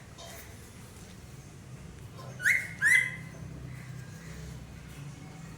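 Pet parrot giving two short, high calls about half a second apart, a little past the middle.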